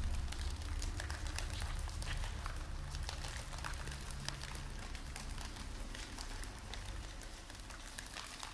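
Rain sound effect: a dense patter of drops over a low rumble, both slowly fading out.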